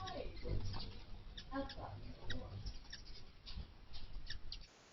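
Wild birds calling: a falling call near the start, then scattered short chirps and chip notes.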